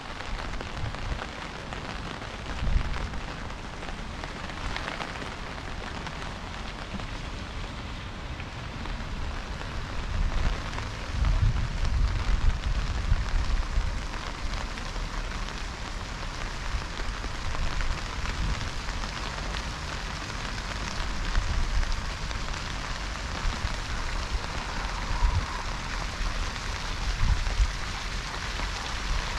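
Steady rain falling, with irregular low thumps now and then, most of them around the middle.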